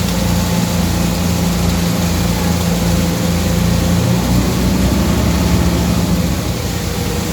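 Boat's engine running with a steady low hum under a continuous hiss.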